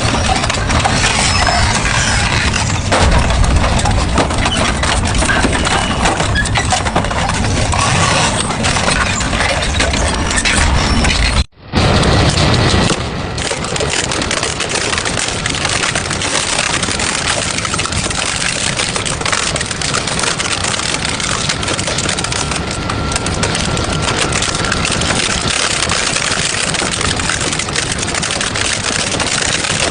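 Industrial double-shaft shredder running and chewing through scrap metal: a steady machine drone with dense crunching and clanking of metal being torn. The sound cuts out for an instant about eleven seconds in, then the grinding resumes a little quieter.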